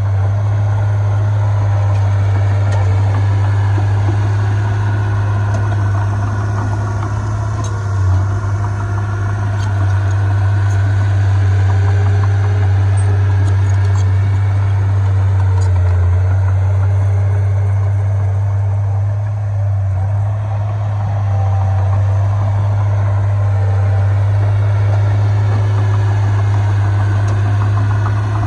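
Heavy diesel engine of earthmoving equipment running steadily, a low, even drone that shifts slightly in pitch now and then.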